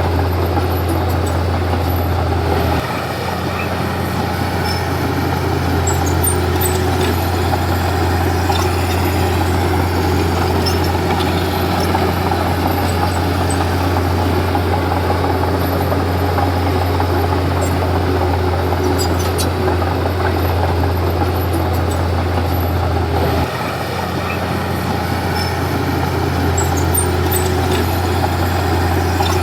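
Komatsu D31P bulldozer's diesel engine running steadily with a deep hum. Its sound drops briefly about three seconds in and again near the end, then builds back up each time.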